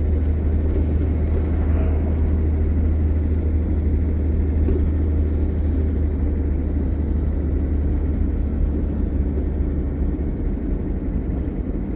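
Steady low engine and road rumble of a vehicle driving, heard from inside its cabin.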